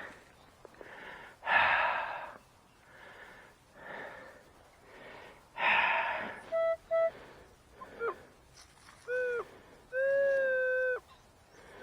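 Metal detector signalling a target still in the dig hole: two short beeps, then a few longer tones a little later that bend in pitch as they start and stop. Before them come several loud breathy rasps.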